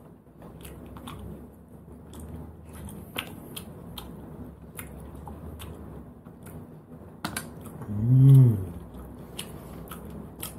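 A person eating cooked sea snails: faint chewing, with scattered short clicks and taps of the shells. About eight seconds in comes a loud hummed "mmm" that rises and falls in pitch, a sound of enjoyment.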